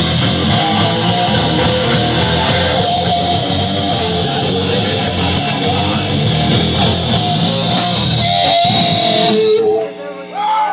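Live rock band playing loud distorted electric guitar over bass and drums; the song stops abruptly near the end.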